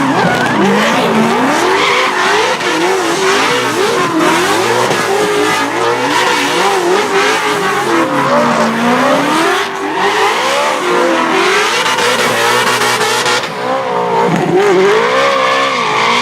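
Drift car's engine revving hard and constantly changing pitch as the throttle is worked through a drift, over the hiss and squeal of spinning tyres.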